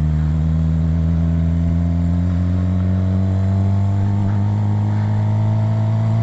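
Suzuki GSX-R750 inline-four engine and exhaust, fitted with a turbo whistle in the exhaust pipe, running under way; the engine note rises gently over the first few seconds, then holds steady.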